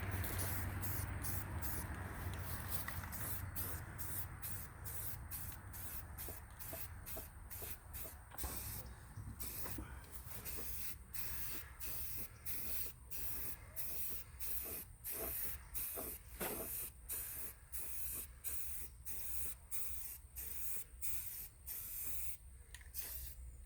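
Aerosol spray can of self-etching primer spraying paint. A hiss at first that fades, then many short bursts of hiss in quick, uneven succession.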